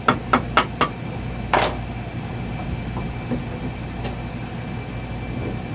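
Hammer tapping on the metal parts of a hydraulic bead breaker being taken apart: four quick, evenly spaced taps, then one brighter, longer strike about a second and a half in, over a steady low hum.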